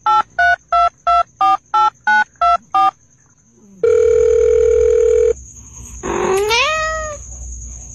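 Telephone keypad dialing tones: about ten quick beeps of differing pitch, then a loud steady tone lasting about a second and a half, and a rising cry near the end.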